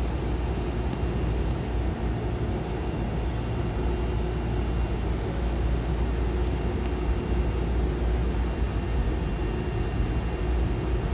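Steady hum and low rumble of stationary Hankyu electric trains standing at the platform with doors open, with an even background hiss.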